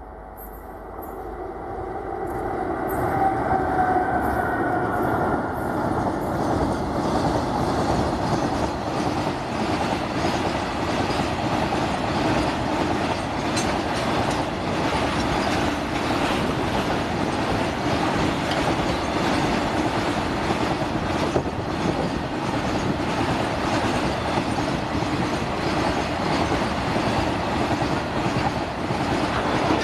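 Indian Railways WAG-7 electric locomotive and a long train of tank wagons rolling past. The rumble swells over the first few seconds, with a faint whine that falls in pitch as the locomotive goes by. Then it holds steady as the wagons clatter over the rail joints.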